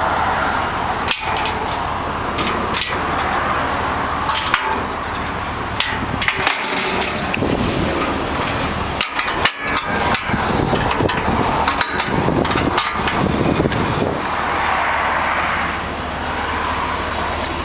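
Wind buffeting the microphone over a steady low hum of a gasoline V8 engine idling, broken by scattered irregular knocks and clicks.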